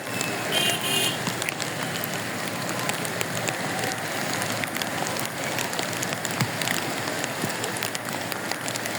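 Floodwater of the swollen Bagmati River rushing past in a steady, even wash of water noise.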